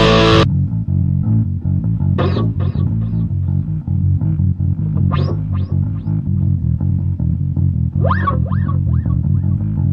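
Instrumental break in a rock song. The full band drops out about half a second in, leaving a bass guitar riff, with a few short swooping guitar notes above it.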